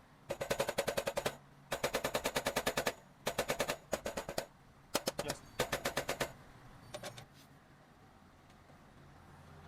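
Motorcycle drive chain clicking in rapid runs, about a dozen sharp clicks a second, five runs of about a second each, then a few fainter clicks. This is the chain noise problem.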